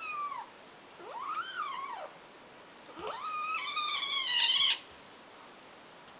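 Domestic cat meowing: the end of one meow at the start, a second rising-and-falling meow about a second in, and a third, longer and louder meow about three seconds in that lasts nearly two seconds.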